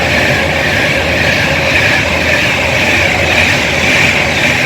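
Class 390 Pendolino electric train running past the platform, a loud, steady rushing noise with a high hiss that holds level throughout.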